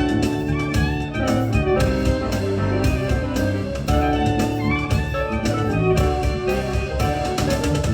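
Live ensemble music: several pitched instruments playing changing notes over frequent percussion strikes.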